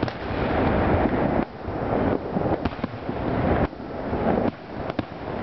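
Aerial fireworks shells bursting in quick succession: sharp cracks over a continuous rumble of booms.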